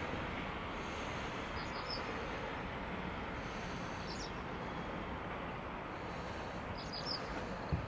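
Steady outdoor background noise with short, high bird chirps about two, four and seven seconds in, and a low thump near the end.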